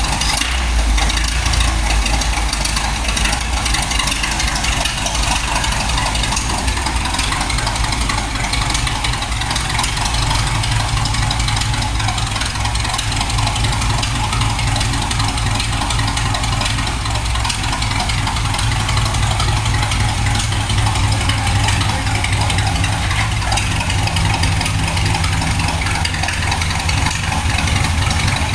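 Car engine idling steadily, a low continuous rumble.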